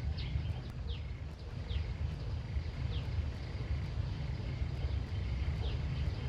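A bird giving short falling chirps about once a second, over a steady low rumble and a faint high insect-like drone.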